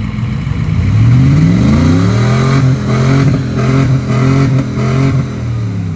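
A vehicle engine revs up hard about a second in and is held high under load, its revs surging and dipping every half second or so. Near the end the revs drop away.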